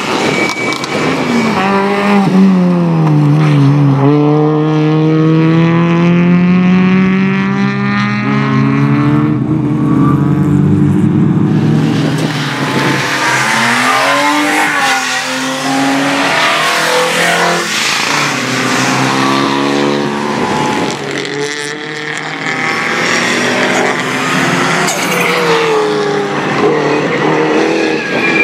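Racing cars' petrol engines revving hard as they pass one after another, the pitch climbing under acceleration and dropping at each gear change or lift-off.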